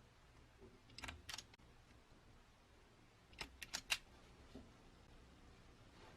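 A few light, sharp clicks over near silence: two about a second in, then a quick run of four about three and a half seconds in, and one faint tap after.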